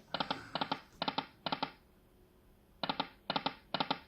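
Electronic poker machine sound effects: a string of short, clipped beeping tones, about four or five a second, in two runs split by a pause of about a second near the middle.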